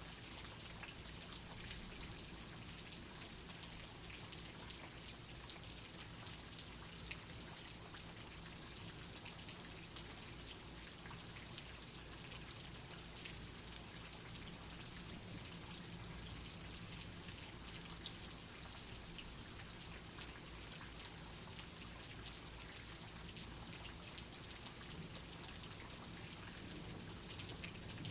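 Steady rain, with many individual raindrops heard as small sharp ticks over an even hiss.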